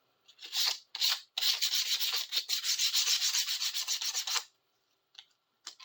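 Sandpaper rubbed by hand over a steel chisel blade: two short strokes, then a quick run of back-and-forth strokes for about three seconds that stops suddenly, followed by a few faint light clicks.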